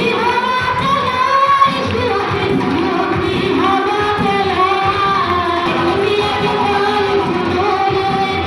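Worship song: singing over instrumental backing, with long held notes in the melody.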